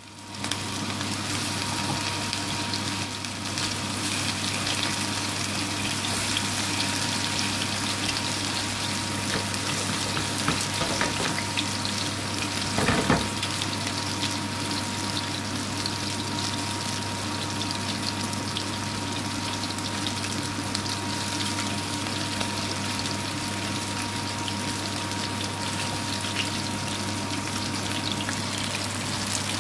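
Minced-meat patties shallow-frying in hot oil in a frying pan, a steady dense sizzle, with a short louder clatter about thirteen seconds in. A low steady hum and a faint steady high tone run under the sizzle.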